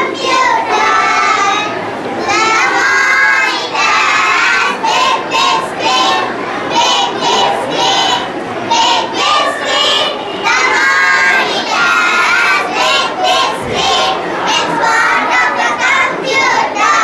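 A group of young children singing together, loud and continuous.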